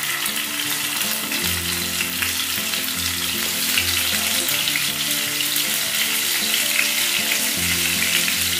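Hilsa fish steaks sizzling and crackling as they fry in hot mustard oil in a frying pan, over a soft background music bed.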